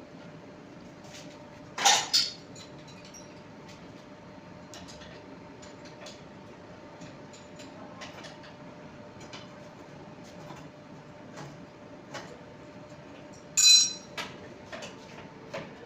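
Metal tools and parts being handled: scattered light clinks and ticks, with two sharp clanks about two seconds in and another loud clank near the end, over a faint steady hum.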